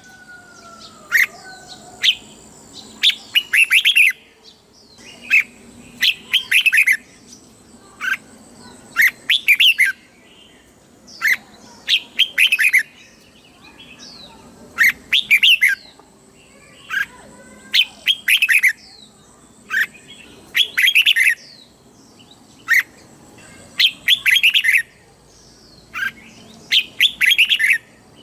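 Red-whiskered bulbul singing: short, clear whistled phrases repeated about every one to two seconds, each a quick run of notes sweeping up and down.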